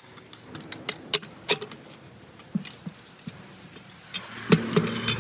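Scattered metallic clinks and knocks of tools and wheel parts being handled during a truck wheel change. A low steady hum comes up about four seconds in.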